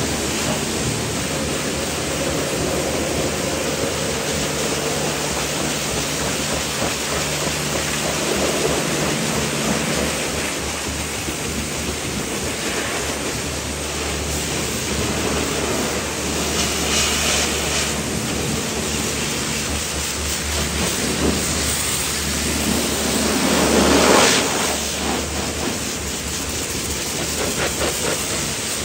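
Pressure washer spraying water or foam onto a car's bodywork: a steady spray hiss over the low hum of the washer's motor, briefly louder about three-quarters of the way through.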